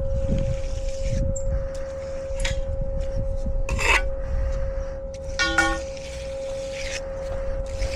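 Rasping strokes of a hand finishing tool scraping across wet concrete, over a steady hum. There is a sharp knock a little before halfway, and a brief chirp past the middle.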